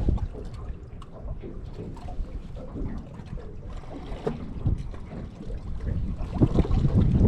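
Wind buffeting the microphone outdoors on an open boat, with water lapping at the hull; the gusts grow louder near the end.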